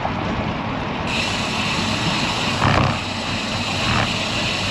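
Wind rushing over the microphone of a road bike in motion, with a steady low rumble of wind and tyre noise. A high hiss joins about a second in.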